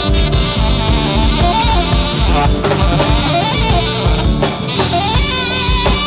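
Live band playing instrumental music: a drum kit keeping a steady beat under bass guitar and a melodic lead line.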